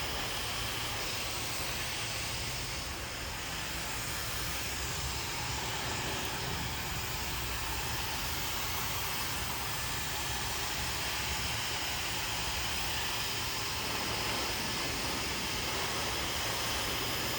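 Handheld hair dryer blowing steadily during a blow-dry, a continuous airy hiss at an even level.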